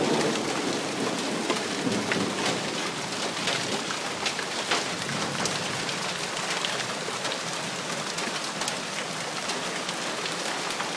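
Heavy rain falling steadily, a dense hiss with scattered drop ticks. The tail of a thunder rumble dies away in the first second.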